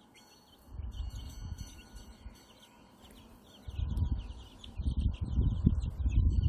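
White Silkie chicks peeping in quick, rapid runs of short falling cheeps, busiest in the second half. A low rumbling noise comes and goes underneath.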